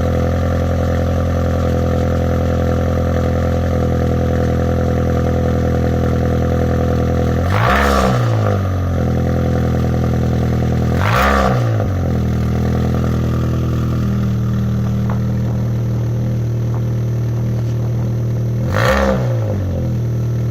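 Opel Corsa B engine idling through a DTM-style exhaust with only a catalytic converter and no middle resonator, after a cold start. The revs are blipped three times: short rises and falls, about eight seconds in, about eleven seconds in, and near the end.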